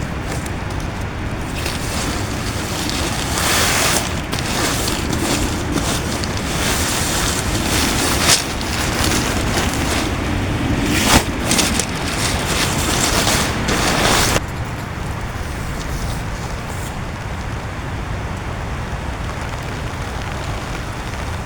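Heavy rain and strong gusting wind on a tent: a dense, continuous rush, with repeated brief surges during the first two-thirds. About two-thirds of the way through it drops suddenly to a steadier, duller rush.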